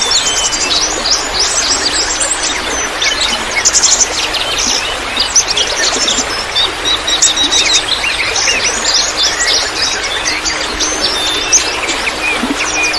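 Many small birds chirping and twittering in quick, overlapping calls and short trills over a steady trickle of running water.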